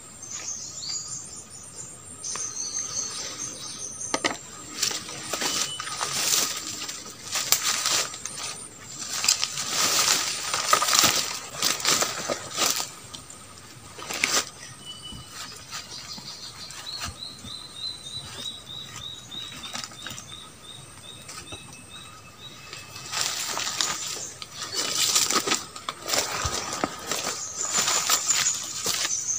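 Rustling and crackling of twigs and leaves being handled, in irregular bursts with short pauses. Steady high thin tones run underneath, and a short series of falling chirp-like notes comes about midway.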